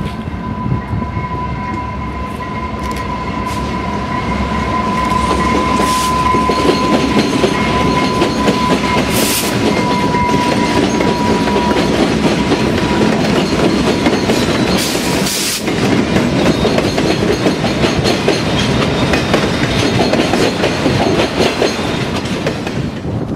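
A Canadian Pacific freight train rolls past, its cars clattering steadily over the rails and growing louder after a few seconds. A steady high-pitched tone sounds over the train through the first half and fades out about halfway.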